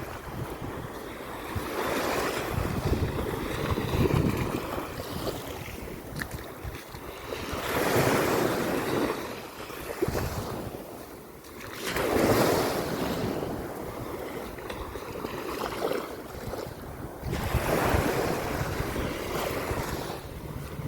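Sea waves breaking and washing up the beach, several large swells with quieter wash between them, with wind rushing across the microphone.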